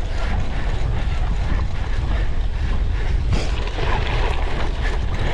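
Wind buffeting the microphone over the clatter and rattle of a cyclocross bike, its chain and frame, riding fast over rough ground.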